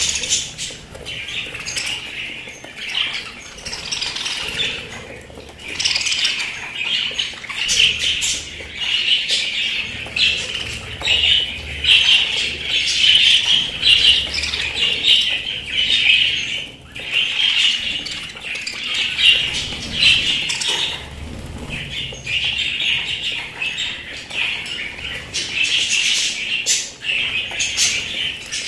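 Pet budgerigars chirping and chattering without pause, with many short sharp clicks among the calls.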